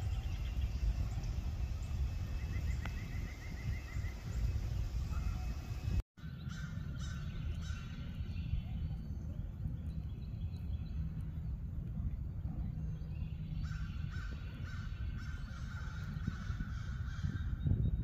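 Harsh bird calls repeated in series: a short bout about six seconds in, after a brief dropout, and a longer bout near the end, over a steady low rumble. A short, fast series of high ticks comes a few seconds in.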